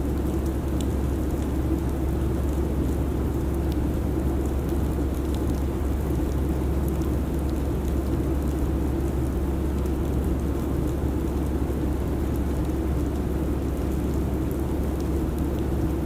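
Airliner cabin noise: a steady low drone of engine and airflow, unchanging throughout, with a few faint ticks.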